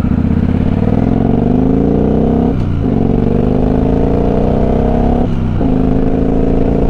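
Motorcycle engine accelerating through the gears, its pitch rising steadily and dropping briefly at two upshifts, about two and a half and five seconds in.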